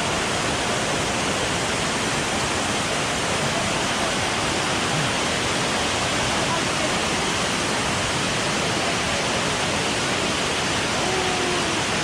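Waterfall water rushing, a steady, loud, even noise with no breaks.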